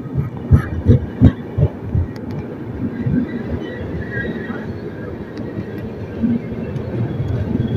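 Passenger express train at a station platform: a steady low rumble, with several low thumps in the first two seconds.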